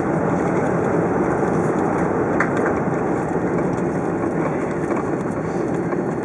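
Steady cabin noise inside a Lufthansa Boeing 747-400 heard from a rear window seat: a constant rush of engine and airflow noise.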